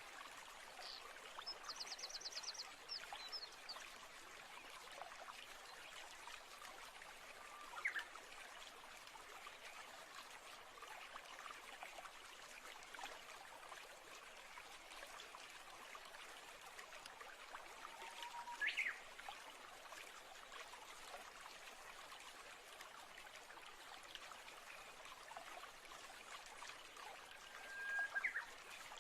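Faint natural ambience: a steady trickle of running water with bird calls over it, a fast trill about two seconds in, then three short calls spread through the rest, the last near the end.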